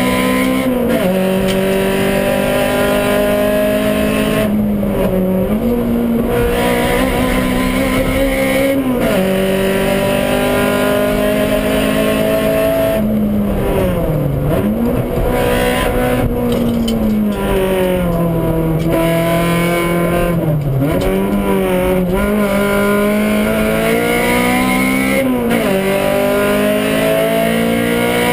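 Honda Civic rally car's four-cylinder engine, heard from inside the cabin, pulling hard under load. Its pitch climbs for several seconds at a time, then drops sharply at gear changes or dips and recovers when the driver lifts, about six times.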